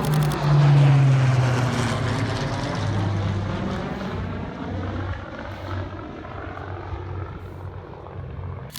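Piston-engined propeller warbird of the Battle of Britain Memorial Flight passing overhead, its engine note loudest about a second in, then sweeping and fading as it moves away. A camera shutter burst runs into the first moment.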